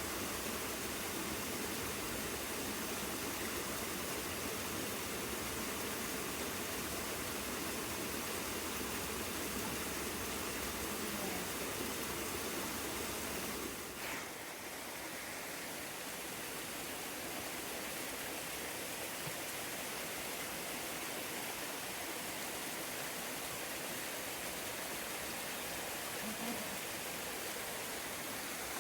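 Steady rush of moving water from a mountain river beside the trail, an even hiss with no other sound standing out; about fourteen seconds in it dips briefly and carries on a little softer in the low end.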